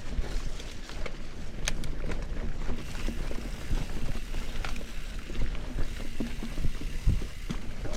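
Mountain bike rolling down a rough dirt trail: a steady low rumble of tyres and wind on the microphone, with scattered knocks and rattles from the bike, the loudest about two seconds in and near the end.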